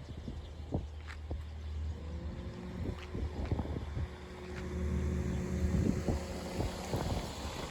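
Jet engines of a Boeing 737 MAX 8 (CFM LEAP-1B turbofans) running, a low rumble with a few steady tones in it, mixed with wind buffeting the microphone.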